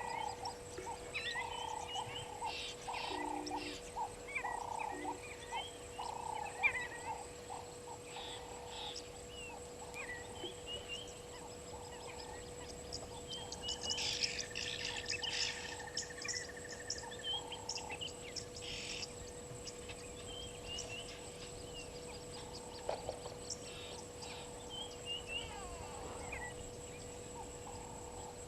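Waterhole ambience: many small birds chirping and calling, over a short low call repeated about twice a second that fades out after the first two-thirds, with short buzzy rasps now and then.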